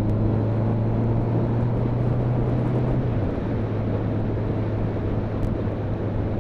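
Motorcycle engine running steadily on the move, under a haze of road and wind rush; its note drops slightly about three seconds in.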